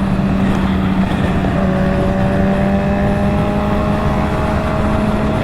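Motorcycle engine running steadily while riding at speed, over a constant rush of noise; its pitch creeps slowly upward from about a second and a half in.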